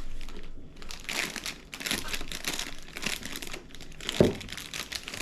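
Plastic snack packet crinkling and rustling as it is handled, with a single thump about four seconds in.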